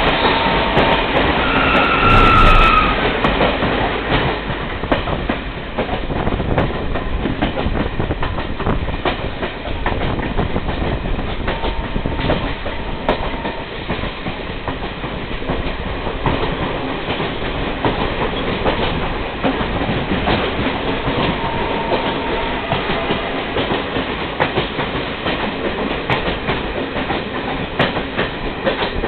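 A passenger train running, with its wheels clattering over the rails in a steady rumble. A brief high squeal comes about two seconds in.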